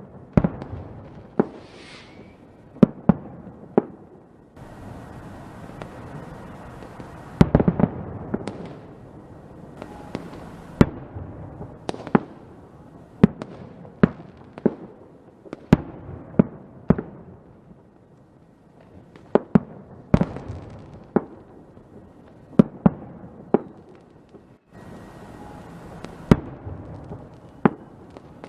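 Fireworks going off: a long run of sharp bangs at irregular intervals, with a loud cluster about a quarter of the way in, stretches of crackling hiss between, and a short whistle early on.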